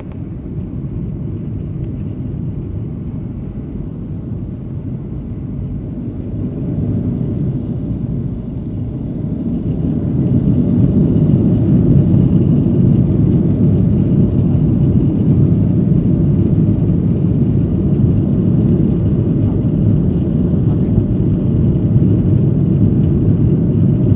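Jet airliner engines spooling up to go-around thrust, heard from inside the passenger cabin: a low, steady rumble that swells over several seconds in about the first half, then holds loud and steady.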